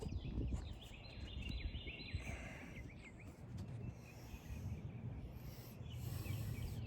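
Outdoor ambience: a bird sings a quick run of repeated high chirping notes in the first couple of seconds, over a low steady rumble.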